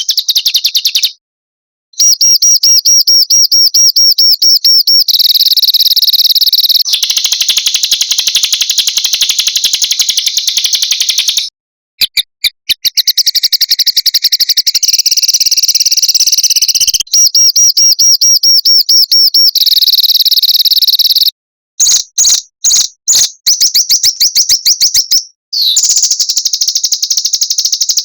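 Recorded small songbirds' song spliced together as a masteran tutor track: fast, dense, high-pitched trills and rapid runs of sharp notes, in blocks of a few seconds that cut off abruptly between short gaps.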